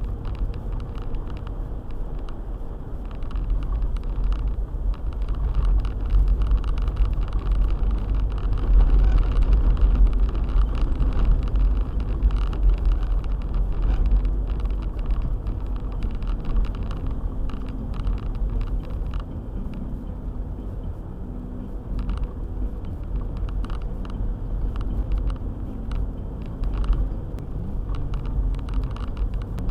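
A four-wheel-drive car driving on a snowy road: a steady low engine and tyre rumble with scattered small ticks, growing louder for a while partway through.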